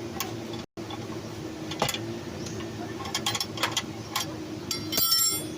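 Metal hand tools clicking and clinking against metal in scattered sharp ticks, with a short metallic rattle with ringing tones about five seconds in, over a steady low hum.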